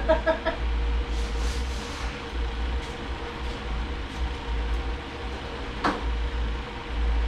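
Steady low hum of the shop, with a few light metallic clicks as a snap ring is fitted over the governor on the transmission's output shaft, and one sharp click about six seconds in.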